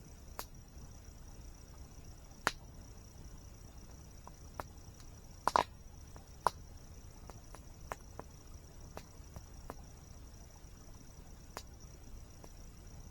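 Campfire crackling: sharp, irregular wood pops, the loudest about halfway through. Under them run a steady high-pitched insect drone and a low, even rush of water.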